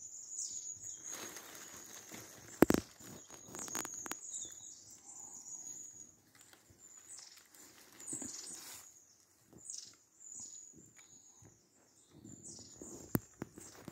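Small birds singing in woodland: high, thin notes and short falling whistles repeated over and over. Rustling runs through the first few seconds, with a sharp click about three seconds in and another near the end.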